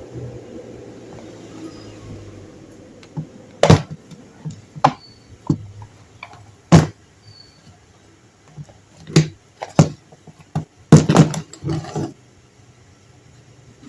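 Sharp clicks and knocks of tools and parts as an electric fan is taken apart by hand: scattered single knocks, then a quick cluster of several near the end.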